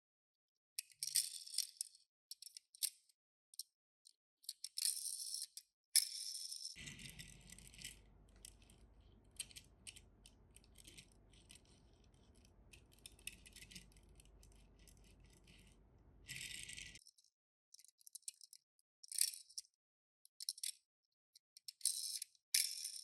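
Small diecast toy cars and hard plastic being handled: light clicks, clatters and rattles in short separate bursts, with pauses between.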